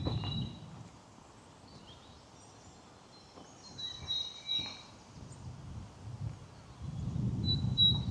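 Songbirds singing in short, high notes, a few phrases at a time, over a quiet outdoor background. A low rumble builds near the end and becomes the loudest sound.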